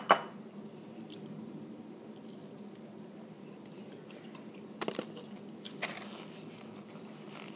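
Eating fried battered prawn close to the microphone: quiet chewing, with crisp bites right at the start and again about five and six seconds in.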